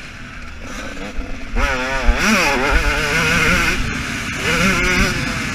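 2015 KTM 125 two-stroke single-cylinder motocross engine heard onboard while riding. It is quieter off the throttle for the first second and a half, then revs up and warbles up and down in pitch as the throttle is worked, and settles to a steadier note near the end.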